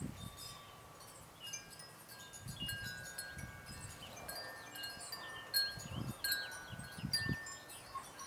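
Wind chimes ringing in overlapping held tones, with small birds chirping and a few soft low thuds.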